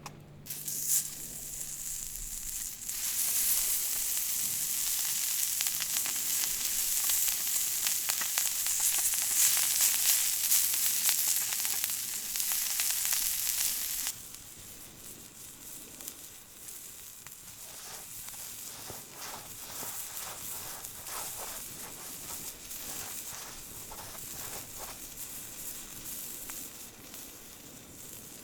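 Food sizzling in a hot pan, loud for the first half, then dropping suddenly about halfway through to a quieter sizzle with small crackles.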